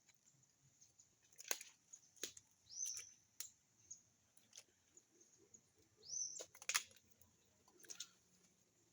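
Scattered snaps and crackles of someone walking through undergrowth, with two short rising bird whistles about three and six seconds in.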